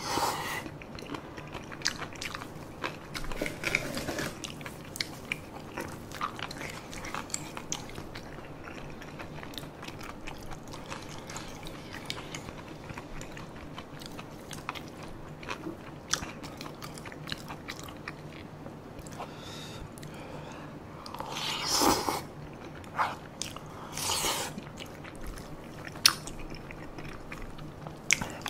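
Close-miked chewing of spicy tteokbokki and boneless chicken feet, with small clicks of a spoon and chopsticks against the bowl. Two louder mouth sounds come about three quarters of the way through.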